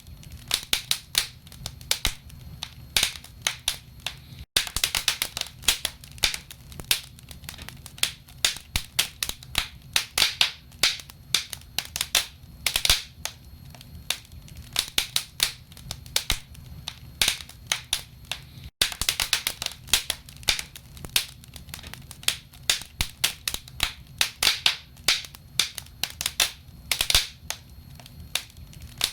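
Wood fire crackling in a fireplace: burning logs give off many sharp, irregular pops and snaps over a low steady rumble.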